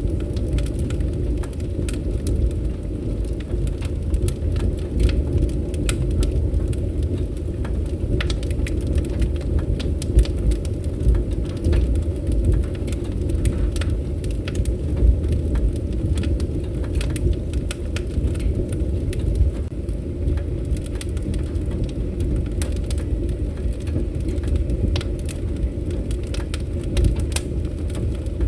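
Wood campfire crackling, with frequent sharp pops and snaps over a low, steady rumble.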